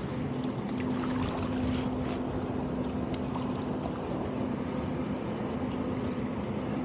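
Steady low drone of a distant boat engine over a background hiss, with a single faint click about three seconds in.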